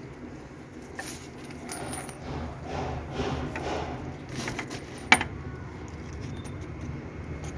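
Small clicks, light clinking and rustling, with one sharp click about five seconds in, over a steady low hum.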